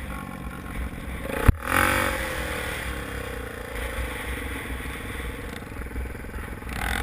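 Motocross bike engine revving. A sharp knock about one and a half seconds in is followed by a loud burst whose pitch drops, then a steadier engine note that slowly falls.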